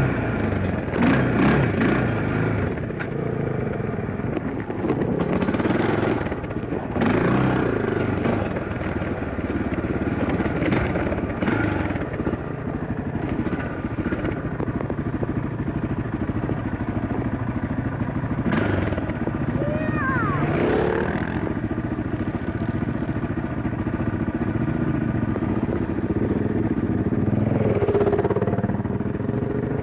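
Dirt bike engine running steadily under way, with repeated sharp knocks and clatter during the first twelve seconds or so and a brief gliding tone about twenty seconds in.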